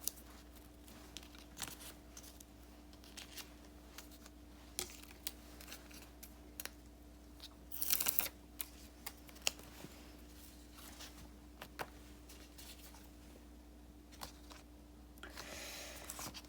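Paper and stickers being handled on a desk: scattered light taps and clicks, with a short rustle of paper about eight seconds in and another near the end, over a faint steady hum.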